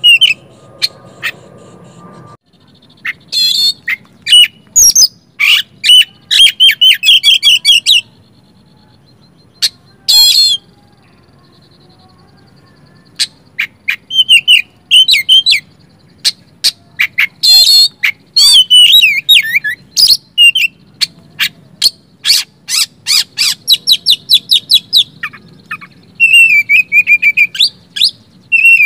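Oriental magpie-robin (kacer) singing a lure song of loud, fast chirps, buzzy trills and sharp whistled notes, in phrases broken by short pauses. A low background hum stops about two seconds in.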